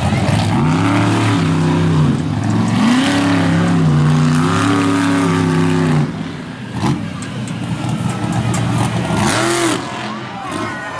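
Monster truck engine revving hard, its pitch climbing and dropping several times for about six seconds before easing off. It revs briefly once more near the end.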